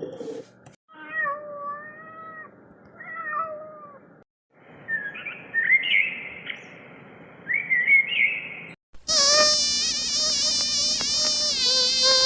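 A cat meowing several times, then higher short mewing or chirping calls, then, after a sudden cut about nine seconds in, a loud, long animal call with a wavering pitch.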